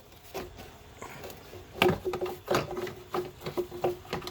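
A run of clicks and knocks from car parts being pulled loose and handled under the hood, thickening about two seconds in.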